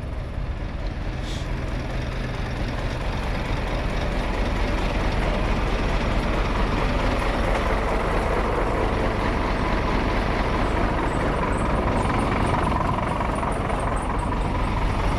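Scania truck's diesel engine running steadily, growing a little louder over the first several seconds.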